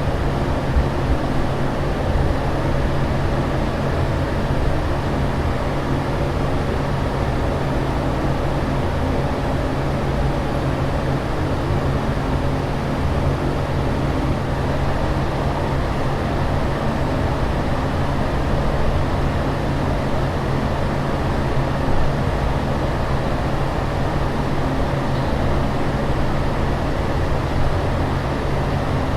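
Aircraft cabin noise in flight: a steady, unbroken rushing noise with a constant low hum underneath.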